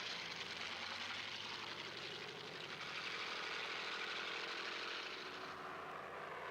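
An engine running steadily at a low, even level.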